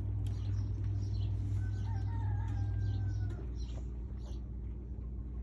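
Chicks peeping in short repeated calls, with one longer, drawn-out bird call about midway. Under them runs a steady low hum that drops in level about three seconds in.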